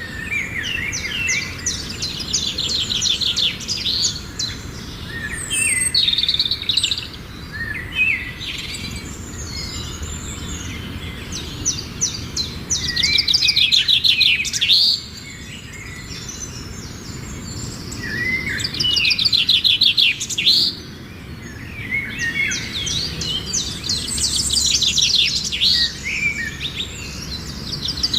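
Birds chirping in repeated bouts of rapid, high twittering trills, each a few seconds long with quieter gaps between, over a steady low background noise.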